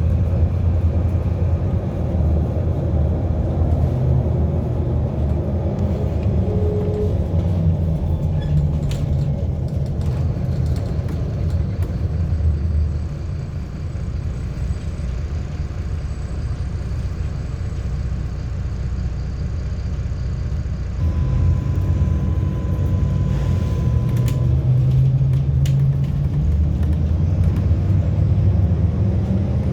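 MAZ-107 city bus heard from inside the cabin while riding: a steady engine and road rumble that eases off around the middle and builds again with rising engine pitch as the bus picks up speed. A thin steady tone sounds for about three seconds in the later part.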